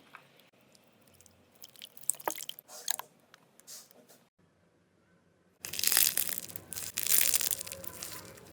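Slime being pressed and squeezed by hand, giving scattered sharp crackles and clicks. After a short pause about halfway through, a loud, dense run of crunching fills the last three seconds.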